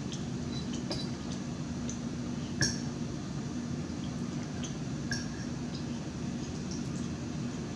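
Cutlery clinking against a plate while eating, in scattered small clicks. The sharpest clink comes a little over two and a half seconds in and another about five seconds in, over a steady low hum.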